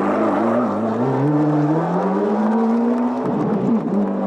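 Rally car engine pulling hard under acceleration, its pitch climbing steadily, then dropping sharply a little after three seconds in as the driver shifts up a gear, before it pulls on at a steady pitch.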